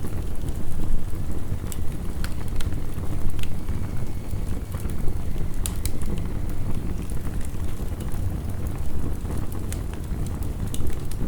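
Heavy rain falling steadily, with a wood fire crackling over it in irregular sharp pops.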